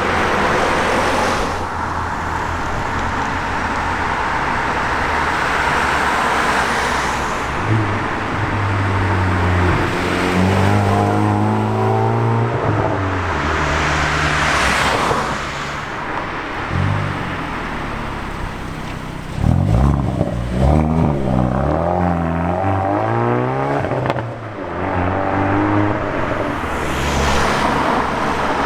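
Hyundai i30N 2.0-litre turbocharged four-cylinder engines as several cars drive past one after another. There are two stretches of an engine revving up and down, one starting about eight seconds in and another about twenty seconds in.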